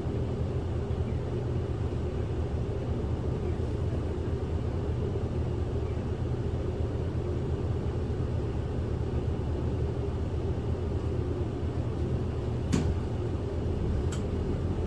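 Steady engine hum and road rumble heard from inside a moving city bus, with two short sharp knocks about a second apart near the end.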